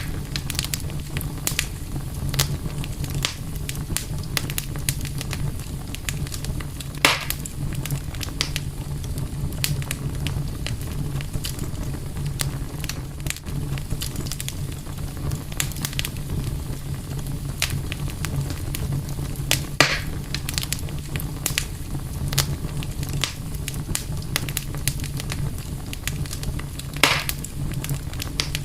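Campfire burning, wood crackling with a steady scatter of small clicks and three louder pops spread through, over a steady low rumble.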